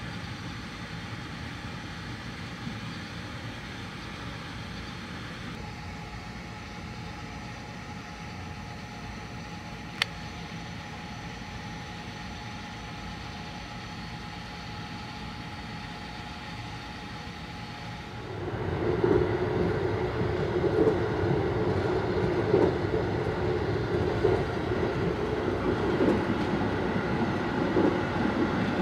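Sunrise Seto sleeper train heard from inside the car: a quiet steady hum with a faint held tone and a single sharp click about a third of the way in. About two-thirds through it turns into a louder, rougher rumble of the train running.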